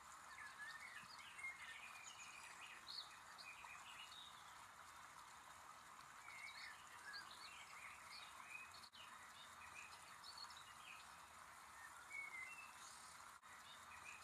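Faint birdsong: many short chirps and twitters from several small birds over a steady hiss.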